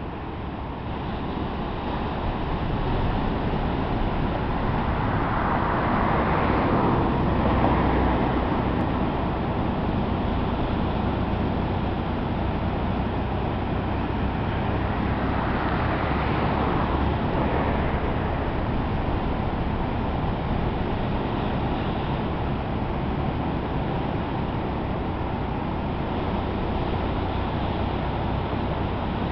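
Rough, typhoon-driven surf breaking on the coast: a dense, steady rush of water that swells louder twice, with a steady low hum underneath.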